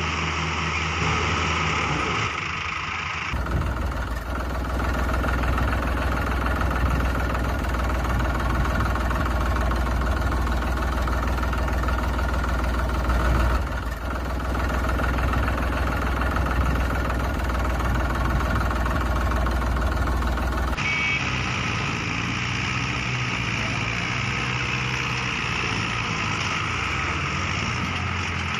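Heavy diesel engines of tractors and a stuck truck running hard during a mud recovery, a deep steady rumble through the middle stretch. Higher engine tones with some background voices come before and after it.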